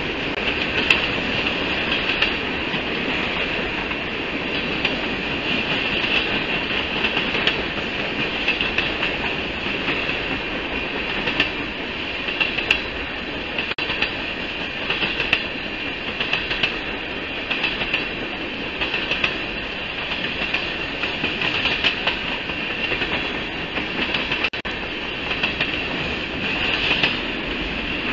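Freight train of tank cars rolling steadily past, its wheels clicking irregularly over the rail joints over a continuous rumble. A steady high-pitched tone runs through it.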